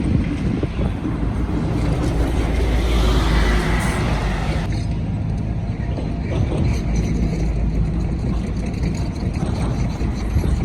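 Street traffic with a large vehicle passing, its noise swelling to a peak about three seconds in and falling away suddenly soon after, over a steady low rumble.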